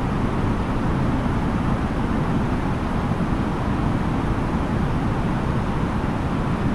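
Steady cabin noise inside an Airbus A330-900neo airliner in flight: an even, low rumble of airflow and engines with no changes.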